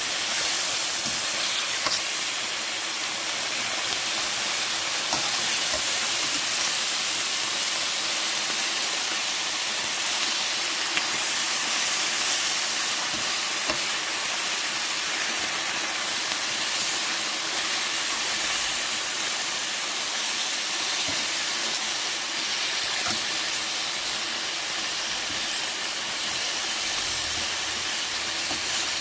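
Chicken wings sizzling steadily as they brown in a hot metal pan, with a few faint clicks of metal tongs against the pan as the pieces are turned.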